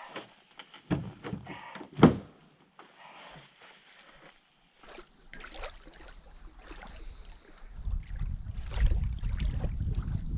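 Knocks and clunks of a canoe being handled on its portage cart, the loudest a sharp knock about two seconds in. From about eight seconds a low rumble takes over.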